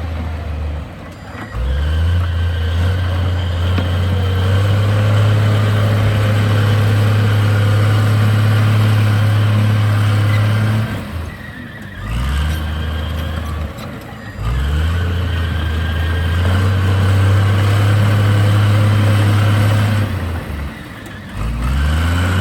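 Heavy diesel engine of an earthmoving machine working in cycles: it runs steady and loud under load, drops off briefly, then revs back up with a rising pitch, about four times over.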